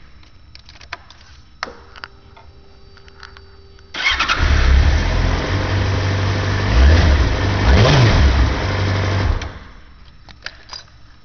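2002 Yamaha YZF-R6S's inline-four engine on its factory exhaust, started up: after a few clicks and a faint steady hum, it catches about four seconds in and runs, revved briefly twice, then is shut off abruptly after about five and a half seconds.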